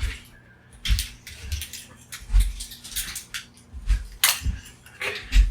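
Irregular sharp clicks and knocks of hand tools and small plastic charger parts being handled and set down, over a faint steady low hum.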